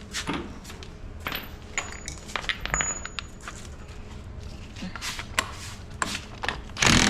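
Metal hand tools and sockets clinking and clattering in a series of short separate clicks, with a louder rattling burst of tool noise near the end.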